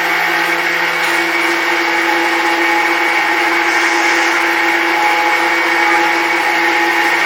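CTCNC70X CNC milling center running: a steady machine whine with several held tones over a continuous hiss.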